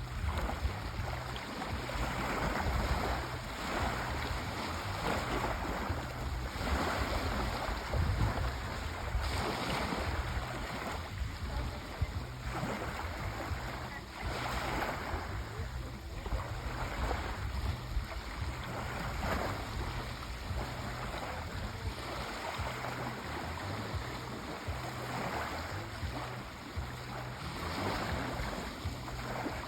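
Sea waves breaking and washing on a shore, swelling and ebbing every few seconds, with a steady low rumble of surf.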